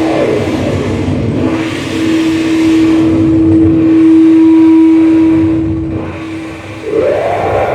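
Loud distorted noise music played live: a dense, harsh wash with a steady held tone from about a second and a half in until near the end, and warbling, wavering pitches at the start and again near the end.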